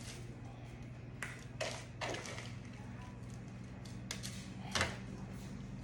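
A few scattered light taps and knocks from handling food in a metal pan, over a steady low electrical hum.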